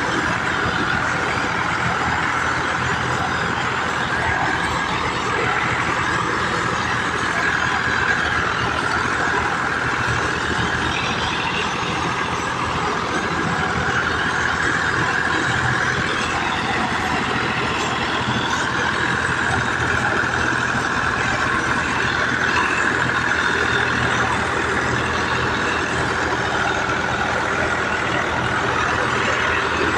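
Tractor diesel engines running steadily at working speed, with no letup.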